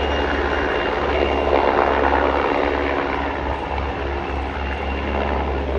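Military display helicopter in flight: the rotor beats steadily and rapidly over the engine noise.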